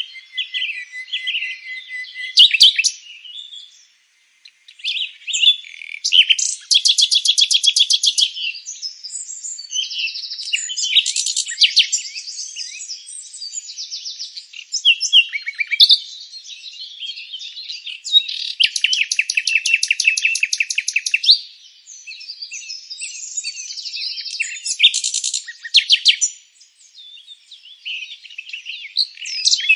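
Several songbirds singing together: a steady mix of overlapping high chirps and whistles, broken by a few rapid trills that each last two to three seconds.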